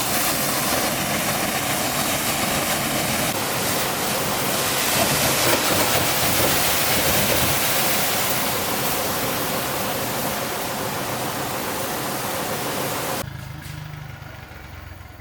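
A motor running steadily under a loud, even hiss, cutting off abruptly near the end.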